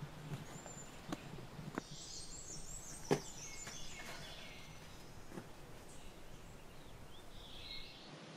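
Forest ambience: a songbird sings a quick series of high chirping notes about two seconds in, with a shorter call near the end. A few sharp knocks sound, the loudest about three seconds in.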